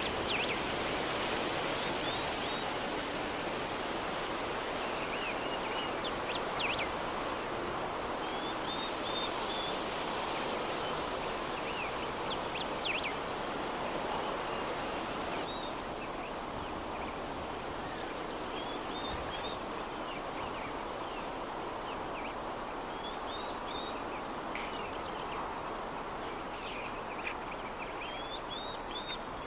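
Soft, steady breeze with small birds chirping over it, short high chirps and trills every second or two.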